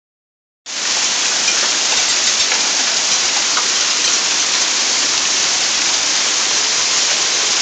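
Hail and heavy rain falling, a dense steady hiss with faint individual hits, starting suddenly about half a second in.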